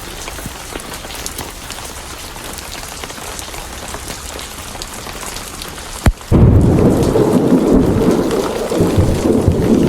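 Steady heavy rain, then about six seconds in a sharp thunderclap followed by loud, rolling low thunder rumbling under the rain.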